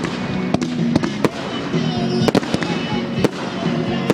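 Fireworks going off: an irregular run of sharp bangs and crackles, several a second at times.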